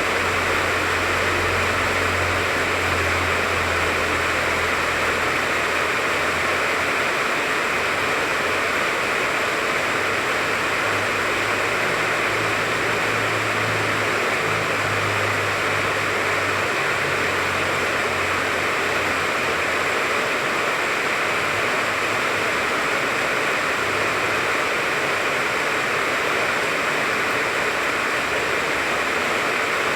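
Steady rain falling on a tangerine tree, an even hiss without pause. A low rumble sits underneath during the first few seconds and again around the middle.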